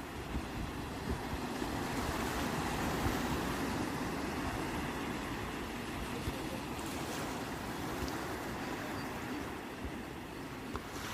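Sea waves washing in, a steady rushing surf that swells a couple of seconds in and eases off near the end.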